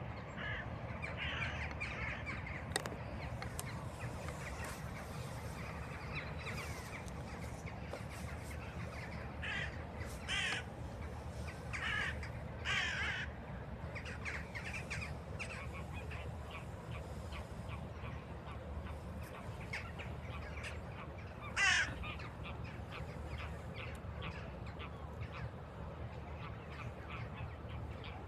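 Crows cawing, a few short calls spread out, the loudest about three-quarters of the way through, over a steady low rumble.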